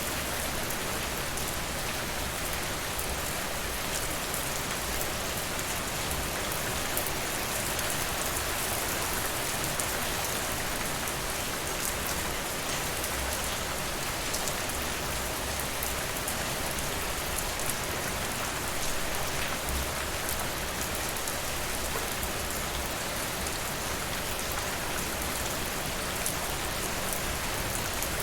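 Steady rain falling, an even hiss sprinkled with many small, sharp drop ticks.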